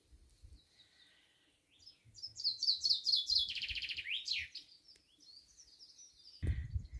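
Songbird singing outdoors. About two seconds in, a loud, fast trill of repeated high notes lasts about two seconds and ends in a few sweeping notes, with softer calls before and after. A low rumble starts near the end.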